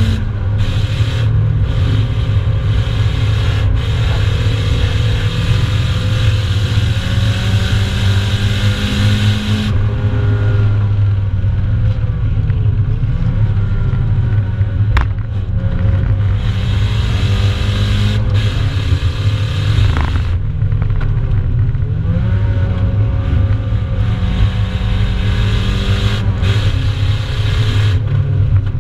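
Nissan 200SX's engine heard from inside the cabin under hard track driving. It runs loud and steady, its pitch climbing gradually and dropping sharply several times as the driver changes gear or lifts for corners.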